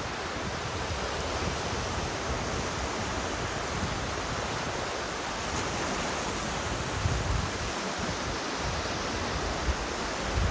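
Steady outdoor rushing noise, with low gusts of wind buffeting the microphone about seven seconds in and again near the end.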